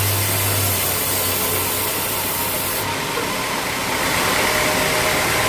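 Sawmill machinery running with a steady noise; a low hum fades out about a second and a half in, and the sound changes abruptly about three seconds in.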